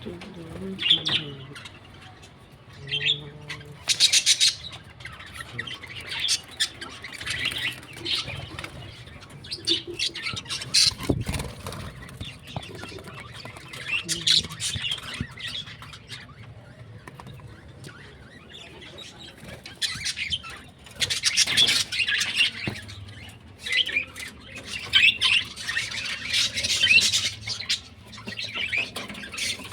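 A flock of pet birds chirping and squawking in short clusters of high calls, with bursts of wing flapping and rustling.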